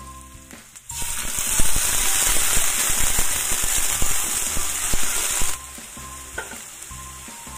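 Water added to hot oil in an aluminium wok with carrots and garlic, sizzling loudly with a crackle of spatter. The sizzle starts about a second in and cuts off suddenly near the end.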